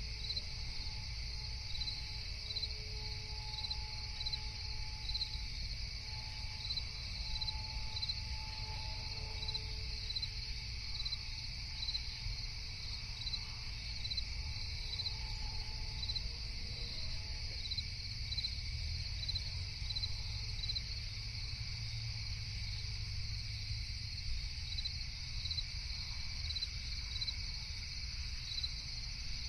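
Night chorus of crickets and other insects: a continuous high trill with a regular chirp about once a second, over a low steady rumble.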